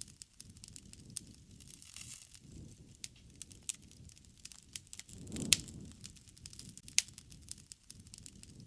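Wood fire crackling, with irregular sharp pops over a low rumble of flame. The rumble swells briefly with a loud pop about five and a half seconds in, and another loud pop comes about a second later.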